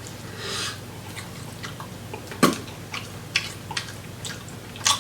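Close-miked eating of saucy seafood: wet chewing and lip smacks as short clicks, with a sharp louder snap about halfway through and another near the end, over a steady low hum.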